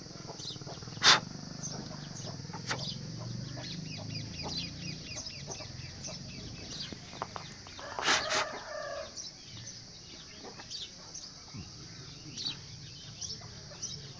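Birds calling and chirping in the background, with a sharp click about a second in and a louder call about eight seconds in.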